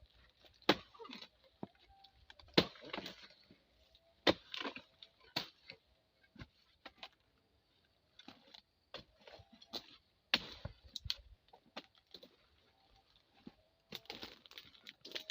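A harvesting blade chopping into tough oil palm fronds in sharp, irregular strikes a second or two apart, with smaller cracks and splintering between them. The fronds are hard and woody from going untended.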